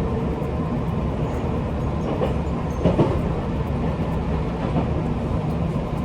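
Train running on rails: a steady low rumble of wheels and running gear, with one brief louder clunk about three seconds in.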